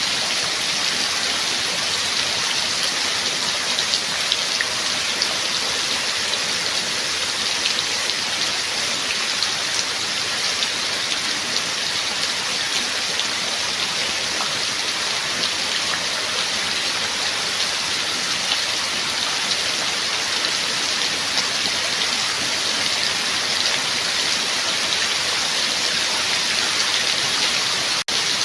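Steady rain falling, a dense, even patter of drops, with a split-second dropout near the end.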